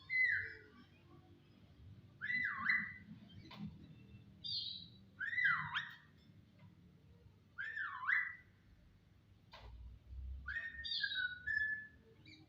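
A jalak starling whistling: clear swooping notes that dip and rise again, repeated as short phrases every two to three seconds with pauses between. Some higher notes come in between, and a couple of sharp clicks.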